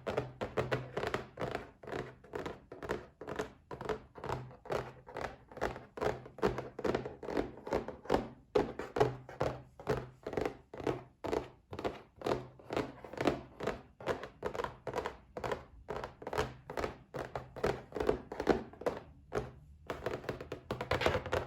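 Fingers tapping on a box in a quick, even rhythm of about three taps a second, with a couple of brief pauses, one about eight seconds in and one near the end.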